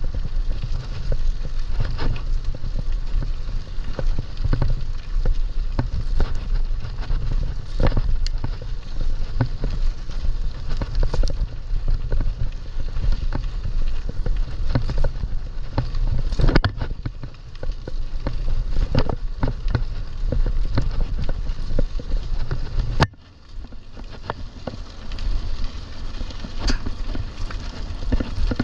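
Mountain bike riding over rough ground: a steady low rumble of wind and tyres, with frequent sharp clicks and rattles as the bike jolts. The rumble drops away briefly about three quarters of the way through.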